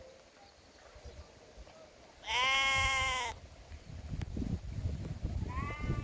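Sheep bleating: one loud call of about a second a little over two seconds in, then a shorter, fainter bleat near the end.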